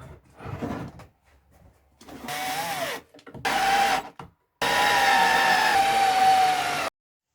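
Power drill running in three bursts, the last and longest about two seconds, driving screws into wooden boards. Its whine drops in pitch as the first burst winds down, and the last burst cuts off abruptly.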